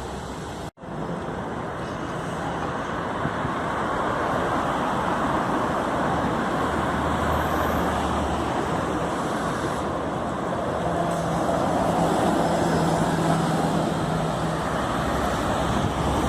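Steady road-traffic noise, a rush of tyres and vehicles on the roadway, that cuts out for an instant under a second in and then builds slowly over the next few seconds before holding steady.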